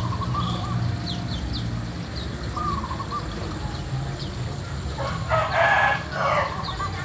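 A rooster crows loudly once, in two harsh parts, about five seconds in. Throughout, small white-eyes (pleci) give short, high chirps.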